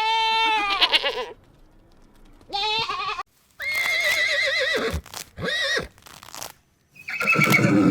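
Young goat bleating: a series of wavering, quavering calls, five or so in a row with short gaps between them.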